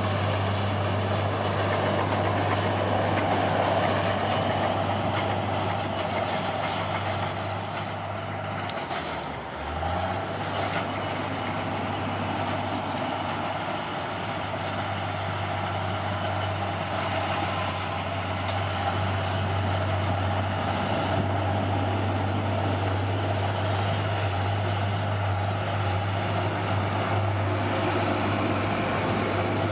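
Caterpillar D6R bulldozer's diesel engine running steadily. Its revs dip briefly about nine seconds in, then recover.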